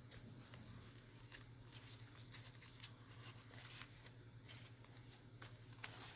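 Faint rustling and scratching of paper and thread as signatures are hand-sewn into a small journal, in scattered short strokes over a low steady hum.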